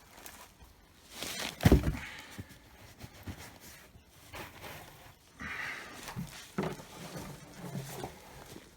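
A bucket of soil being handled and tipped during a sweet potato harvest: a rustle of soil, then one heavy thump under two seconds in, followed by quieter scraping and knocks.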